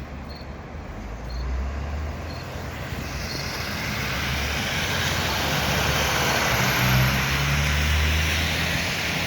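City bus engine running as it draws near, its low drone and road noise growing louder to a peak about seven seconds in. Four short high beeps, about a second apart, sound in the first few seconds.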